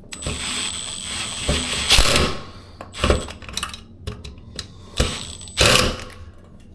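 Cordless drill-driver driving a screw into a ceiling fan blade: the motor whines for about two seconds, then clicks and knocks of the screw and fittings, and a second short burst of driving about five seconds in.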